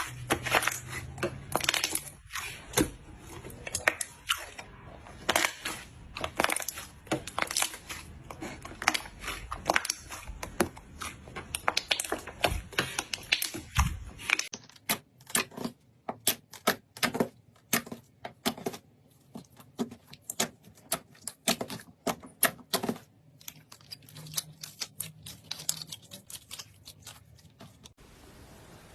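A rapid, irregular run of crisp clicks and crackles, with a change to a quieter background at about the halfway point and the clicks stopping near the end.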